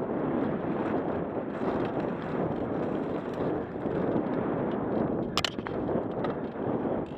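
Mountain bike descending fast on a rough trail: steady rush of wind on the camera's microphone mixed with tyre and trail rumble and small clatters from the bike, with one sharp clack about five seconds in.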